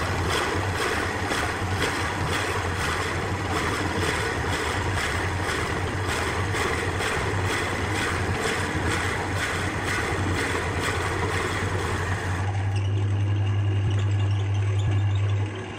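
Wood lathe running with a turning tool cutting the spinning glued-up wood blank: a steady motor hum under a rough, evenly pulsing cutting noise. About twelve seconds in the cutting stops, leaving the lathe's motor hum alone.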